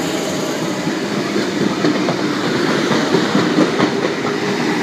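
Electric suburban passenger train moving through the station, its wheels clacking over rail joints with a few sharp knocks over a steady rumble.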